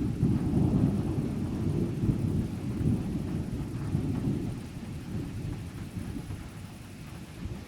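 Rolling thunder rumbling low, loudest over the first few seconds and then slowly fading.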